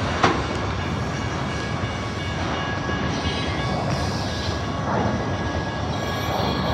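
Freight train of autorack cars rolling past close by: a steady rumble and rattle of wheels and car bodies, with a single sharp clank about a quarter of a second in.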